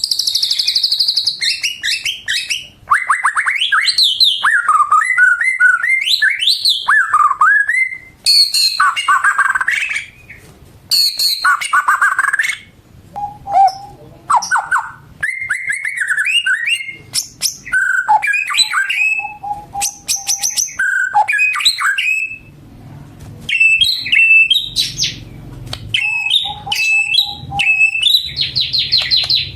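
White-rumped shama singing a long, varied song: loud whistled phrases, rapid trills and chattering runs with short pauses between them.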